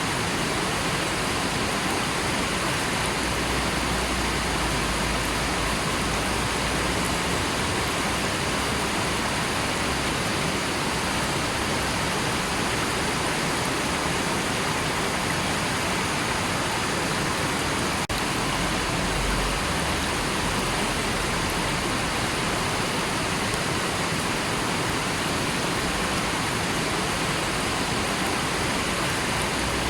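River water rushing, a steady, dense hiss of flowing water with no change in level.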